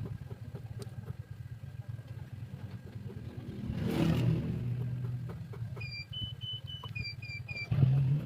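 A motor vehicle engine runs with a low pulsing rumble that swells louder around four seconds in. Near the end comes a quick run of about seven high electronic beeps at two alternating pitches.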